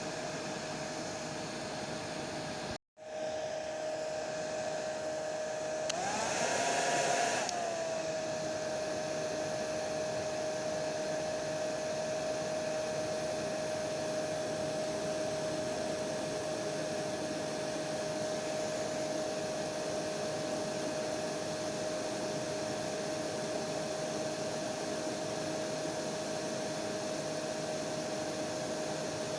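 Hair dryer running steadily, a rushing blow with a steady motor whine. About three seconds in the sound cuts out for an instant; a few seconds later the whine briefly rises in pitch and grows louder before settling back to its steady run.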